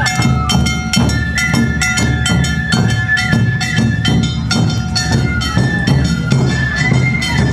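Awa odori festival music: shinobue flutes playing a held, high melody over shime-daiko and ō-daiko drums and the kane hand gong beating a steady, fast rhythm.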